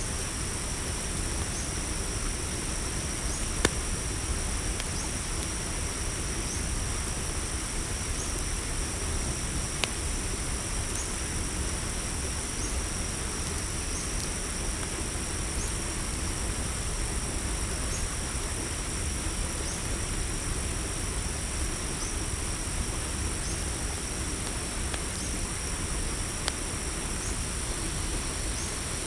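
Night insect chorus of crickets in a steady high trill, with a short rising chirp repeating a little more than once a second over it. A few sharp pops of a crackling campfire stand out now and then, over a low rumble.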